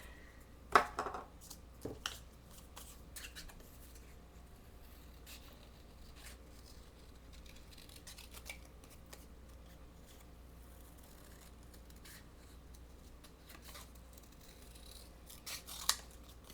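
Scissors snipping out shapes from thin craft paper: a run of faint snips and clicks, with a sharper, louder snip about a second in and another pair near the end.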